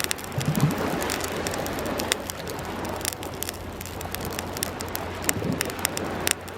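Wood fire crackling and popping with frequent sharp snaps, over a steady wash of waves. Two brief low sounds come in, about half a second in and again near the end.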